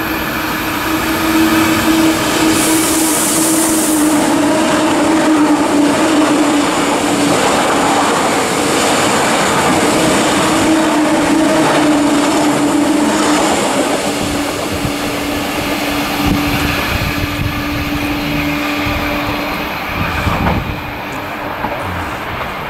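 Electric train passing close by on the line, a steady running noise with a humming tone that drops slightly in pitch partway through and eases off in loudness during the second half.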